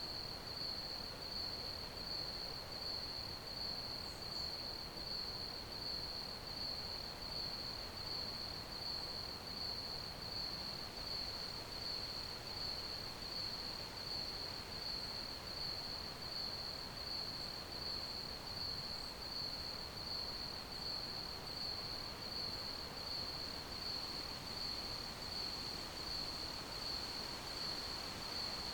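Crickets chirping in a steady, high-pitched, evenly pulsing trill that never breaks, over a faint hiss.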